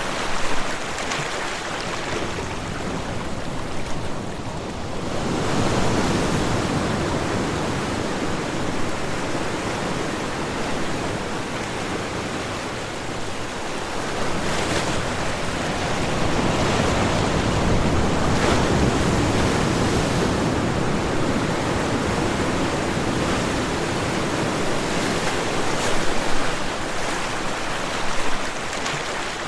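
Ocean waves breaking and washing on a shore, in slow swells of surf noise.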